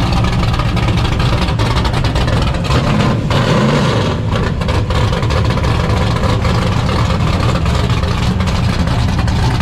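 Drag-racing car engines idling with a loud, steady low rumble, with a brief rise and fall in engine pitch about three and a half seconds in.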